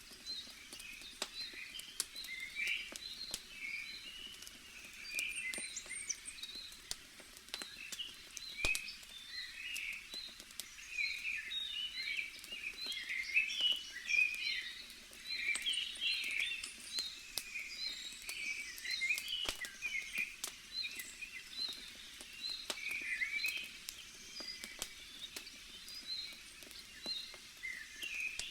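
Wood fire crackling with scattered sharp pops, over a continuous chorus of small birds chirping.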